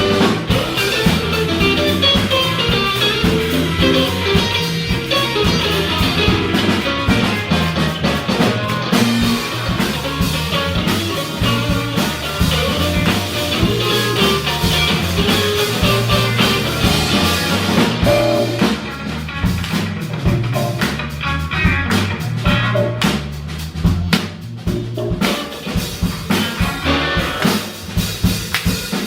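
Live funk band playing an instrumental groove on electric guitar, bass, keyboards and drum kit. About eighteen seconds in the band drops back and the drums come to the front with sharp snare and rimshot hits.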